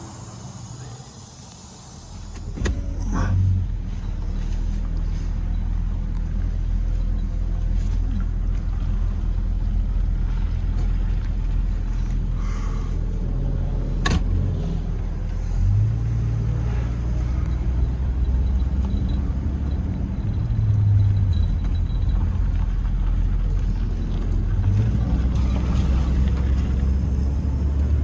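The 1997 Jeep Grand Cherokee's 4.0 inline-six running and the vehicle being driven: a steady low engine drone that comes in about two and a half seconds in, after a short hiss. There is a single sharp click about halfway through.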